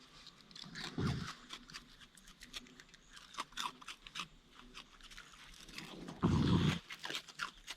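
Raccoons chewing and crunching Froot Loops cereal, a run of short crisp crunches. Two louder low bumps come about a second in and near the end.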